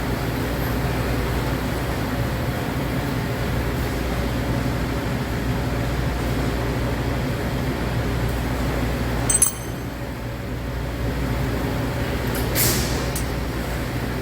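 A steady low mechanical hum, with a sharp metallic clink that rings briefly about nine and a half seconds in and a couple of lighter clicks near the end.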